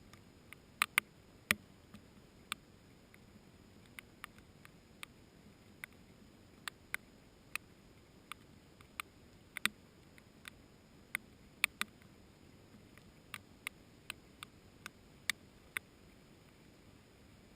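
Scattered raindrops dripping, heard as irregular sharp ticks about two a second, a few louder than the rest, over a faint low hiss of rain.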